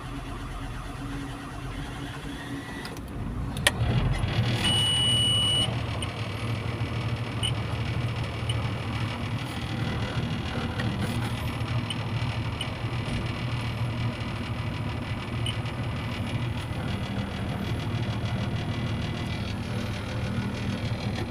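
Volvo EC210BLC excavator's diesel engine running steadily, having started after its ECU was replaced. A click and a brief louder surge come a little under four seconds in, with a steady high beep lasting about a second just after.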